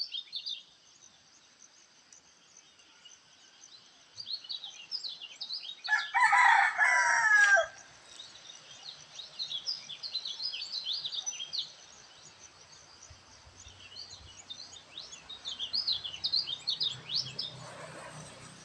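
Small songbirds chirping in repeated bouts of quick, high notes. A rooster crows once about six seconds in, the loudest sound, with the crow falling away at its end.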